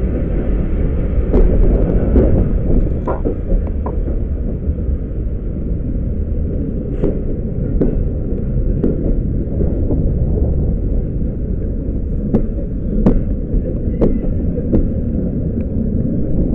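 Passenger coaches of a steam-hauled train rumbling along slowly through a station, with scattered sharp clicks from the wheels and track, heard through an open carriage window.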